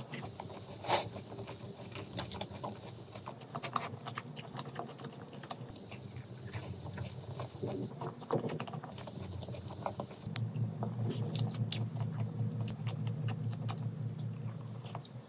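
Close-miked chewing and crunching of cheese-powder-coated fried chicken: crisp crackles and clicks with wet mouth sounds. The chewing grows denser from about ten seconds in.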